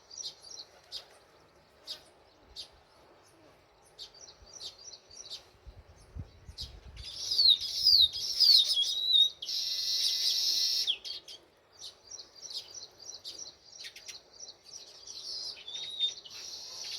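House sparrows chirping in repeated short, high chirps. About halfway through comes a louder run of falling chirps, followed by about a second and a half of harsh, buzzy chatter, after which the steady chirping resumes.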